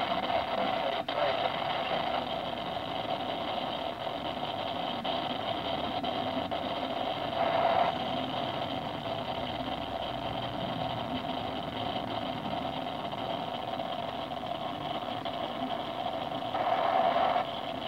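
Freight train cars rolling past on the rails, a steady rumble and clatter of wheels and cars. It grows louder for a moment about seven seconds in and again near the end.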